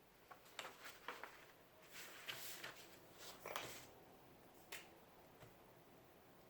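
Faint light clicks and brief rustles of small objects being handled, clustered over the first five seconds.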